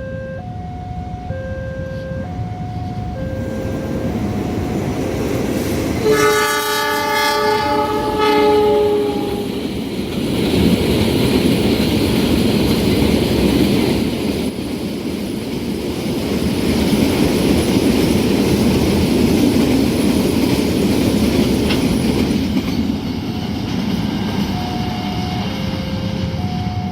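Train horn sounding for about three seconds, dipping slightly in pitch at its end. The train then passes with a steady rumble of wheels on rail. A level-crossing warning alarm alternates two tones before the horn and again near the end.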